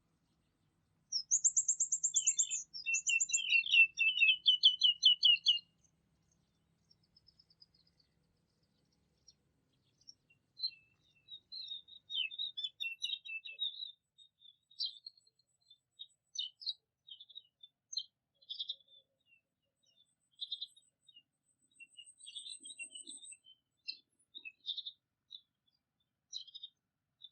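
Songbirds singing: a loud, fast trilling phrase of rapidly repeated high notes in the first few seconds, then scattered short chirps and twitters.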